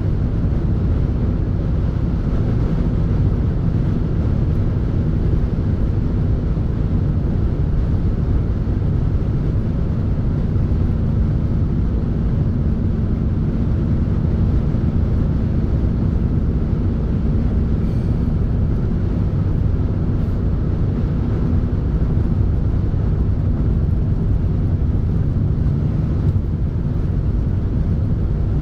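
Steady low rumble of a moving vehicle, with an even hum and no changes.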